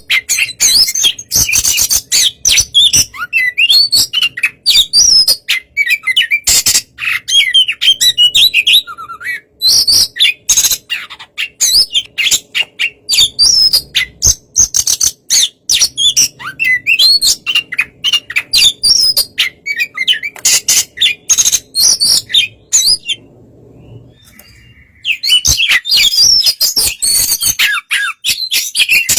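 Oriental magpie-robin (kacer) singing a loud, fast, varied song of chirps, whistles and rattles, broken by a short pause about 23 seconds in.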